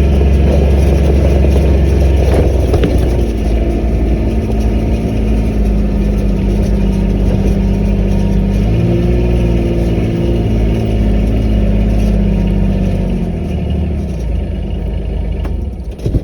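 Car engine and road noise heard from inside the moving vehicle's cabin, a steady low hum whose pitch shifts a few times, fading as the car comes to a stop at the very end.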